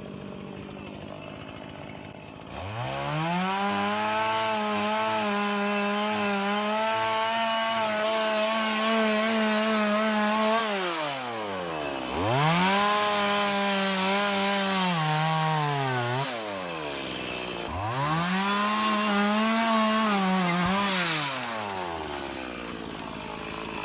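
Two-stroke chainsaw revved to full throttle and cutting wood three times: a long cut of about eight seconds, then two shorter ones of about four seconds each. Between cuts the engine drops back toward idle, and its pitch sags slightly as the chain bites.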